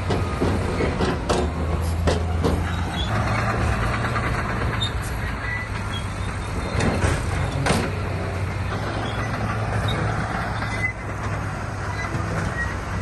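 Heavy diesel earthmoving machinery running steadily, with scattered clanks and knocks of rock and metal, loudest around the start and again about seven seconds in.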